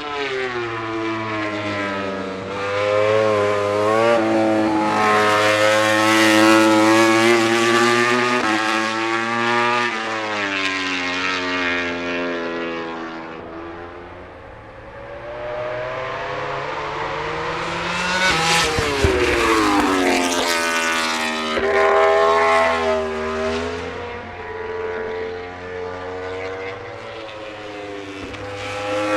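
MotoGP prototype race motorcycles at full throttle on track, their engines climbing in pitch through rapid upshifts. About two-thirds of the way in, one bike passes loudest with a sharp drop in pitch.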